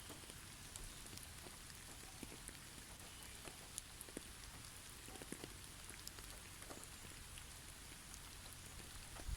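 Faint, sparse patter of falling snow and drips landing on snow-covered trees: scattered soft ticks over a low steady hiss.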